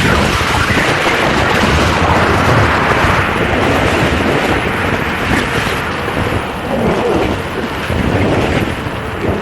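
Loud wind buffeting the microphone of a rider on an electric unicycle at speed, a dense rushing noise heavy in the low end, with road and traffic noise underneath.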